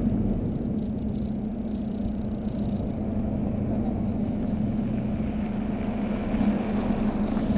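Volkswagen Golf 2.0 TDI diesel engine running steadily through a 3-inch Cortek exhaust with a high-flow cat, an even drone that holds its pitch.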